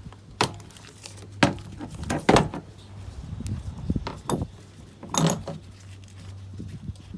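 Metal objects being handled: about six sharp clinks and knocks, the loudest a double knock just past the middle, over a steady low hum.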